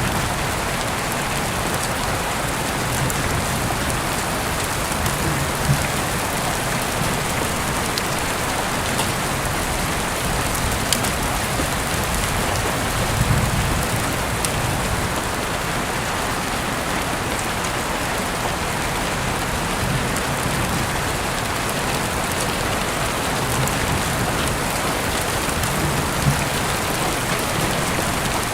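Heavy rain falling steadily, an even hiss with sharp ticks of single drops. There is a brief low rumble about halfway through.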